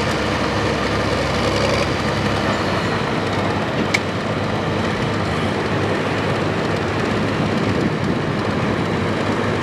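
Farm stock pulling tractor's diesel engine running hard and steady under load, with a dense mechanical rumble. A single sharp click about four seconds in.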